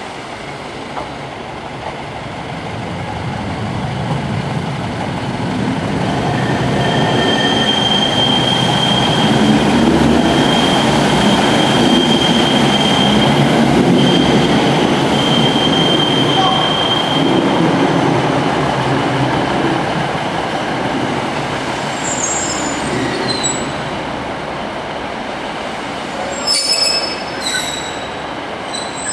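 Class 150 Sprinter diesel multiple unit running slowly past, its engine and wheel rumble growing louder towards the middle and easing off later. A high, steady wheel squeal sounds on and off for several seconds around the loudest part. A few short squeaks come near the end.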